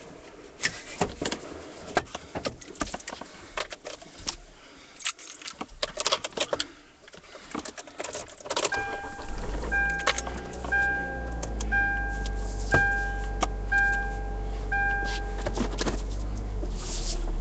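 Car keys jangling and clicking for several seconds. Then a car's door or key-in-ignition warning chime starts, a two-note ding repeating about once a second about seven times, while a low steady hum of the car's engine comes in under it.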